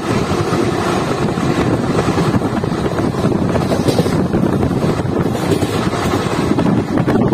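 ICF passenger coach of an express train running at speed: a loud, steady rumble of wheels on the track.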